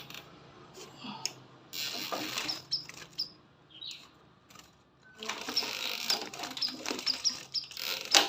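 A caged sunbird giving many short, high chirps over bursts of rustling and fluttering.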